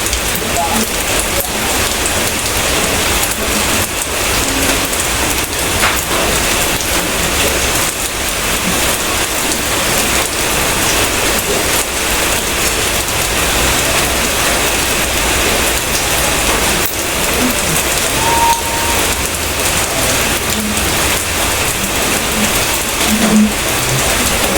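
Steady rain falling on surfaces, a dense even hiss of drops with a low rumble beneath.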